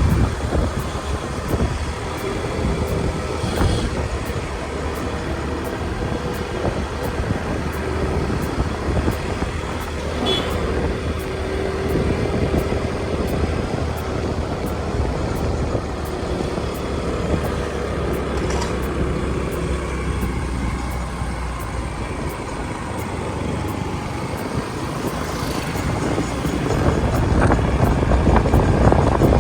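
Motorbike running along a road, a steady engine and road-noise rumble that grows louder near the end.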